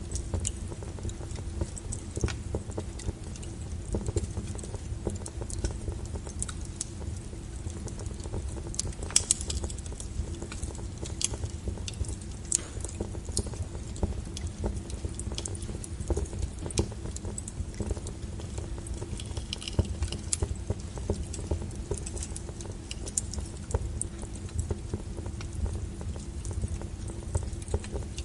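Wood fire crackling, with irregular sharp pops and snaps over a steady low rumble of burning logs. The loudest pop comes about nine seconds in.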